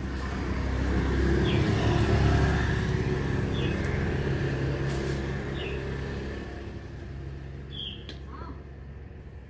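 A motor vehicle's engine passing by, swelling to its loudest about two seconds in and slowly fading away, with a bird chirping every couple of seconds.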